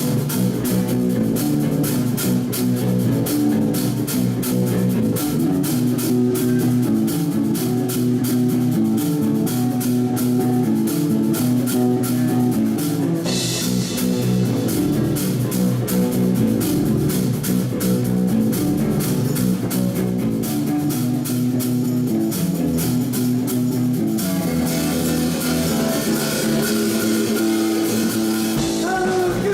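Live rock band playing an instrumental intro: an electric guitar riff over bass guitar and a drum kit keeping a steady beat. Cymbal crashes come in about halfway through and again near the end.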